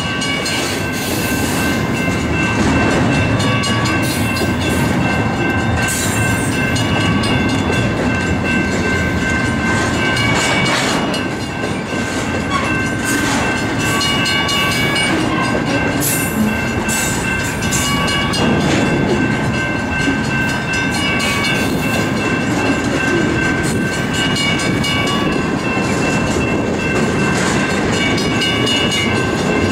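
Double-stack intermodal well cars rolling slowly past, steel wheels on rail with clicking and knocking over the track. A thin, steady high-pitched squeal runs over the rolling noise.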